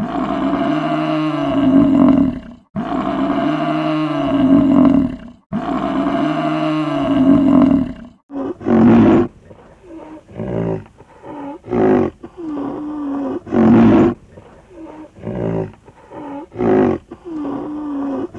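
A large animal calling: three long, loud roars, then a series of about eight shorter, grunting calls roughly a second apart.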